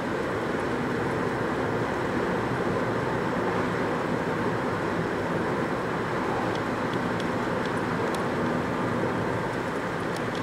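Steady hum of road traffic, with a few faint ticks.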